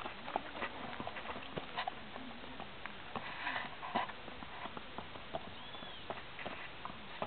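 Hoofbeats of a Mangalarga mare moving at her gait: an uneven clip-clop of hooves striking the ground, several strikes a second.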